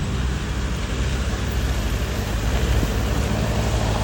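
Steady road traffic noise, with a continuous low engine rumble under a broad hiss of tyres on the road.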